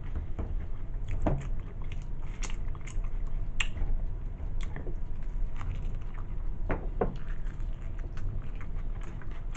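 A person chewing a Subway cold-cut sandwich close to the microphone: irregular wet mouth smacks and clicks.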